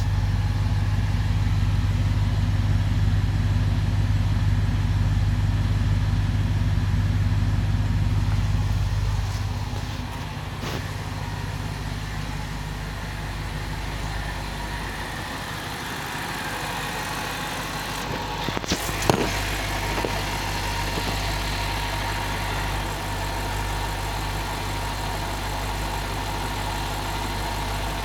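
BMW 645Ci's 4.4-litre V8 idling after a cold start. Its steady hum drops to a quieter, lower idle about nine seconds in, with a single sharp click a little past the middle.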